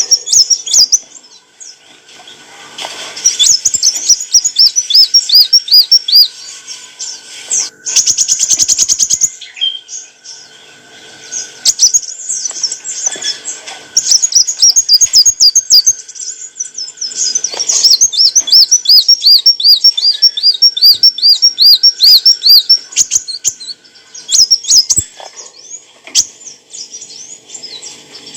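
Kolibri wulung sunbird singing: phrases of rapid, high, thin notes repeated in quick up-and-down series, with a dense buzzy trill about eight seconds in and short pauses between phrases.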